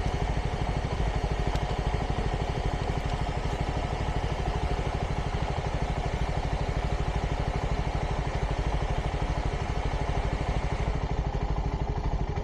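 CFMoto 300NK's single-cylinder engine idling steadily through its stock exhaust, warming up after a start.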